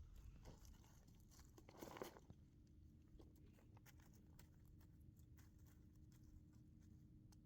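Near silence: faint scattered clicks, with a brief rustle about two seconds in and a faint steady hum after it.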